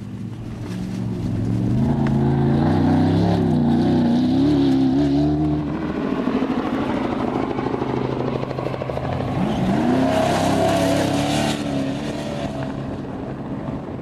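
Off-road race vehicle engine revving through its gears as it drives past, rising and falling in pitch. A second loud stretch of engine about ten seconds in climbs in pitch and carries a hiss.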